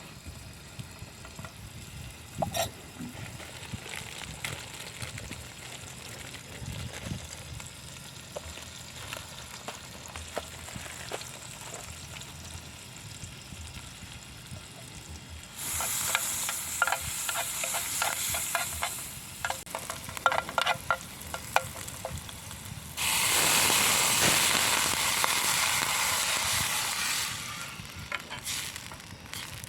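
Scattered light clicks and knocks, then two spells of hiss that start and stop suddenly, the second louder and longer, with clicks running through the first.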